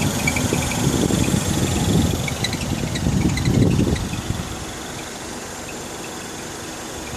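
2009 MINI Cooper S making a weird squeaky noise from the right front passenger side: short high-pitched chirps in small clusters over the low rumble of the car, which gets quieter about four seconds in.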